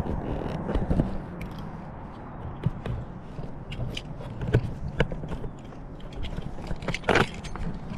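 Footsteps on a walking trail: irregular steps and scuffs, with a louder, brief scrape about seven seconds in.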